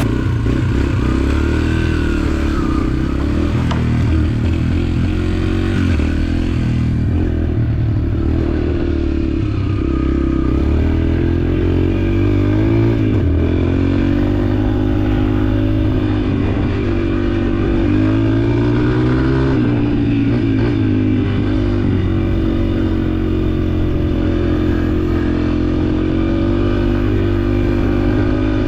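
Yamaha dirt bike engine running under the rider, its pitch rising and falling gently several times as the throttle is rolled on and off.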